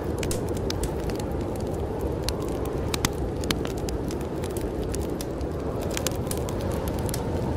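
Wood fire crackling in a fireplace, with irregular sharp pops, a few louder ones about three seconds in and near six seconds, over a steady low rush of snowstorm wind.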